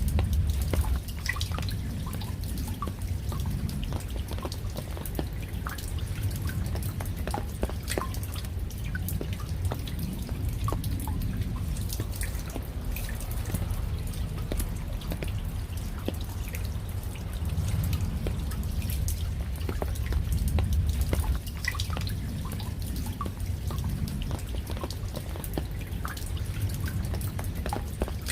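Raindrops falling, many separate drops ticking and dripping at an irregular pace over a steady low rumble.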